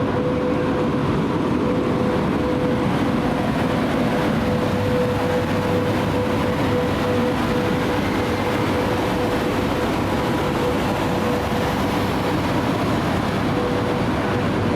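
Steady hum of a standing electric train's machinery, with a constant mid-pitched tone held throughout and no change in pitch.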